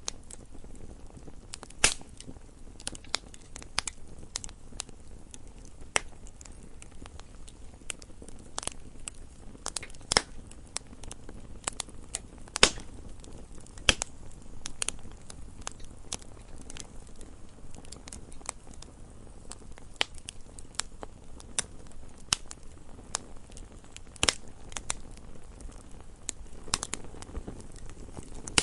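Wood fire crackling, with irregular sharp pops and snaps, a few louder ones scattered through, over a low steady hiss.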